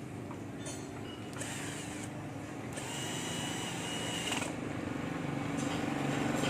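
An engine running with a steady low rhythmic pulse, growing louder toward the end, with a few short scratchy rasps over it.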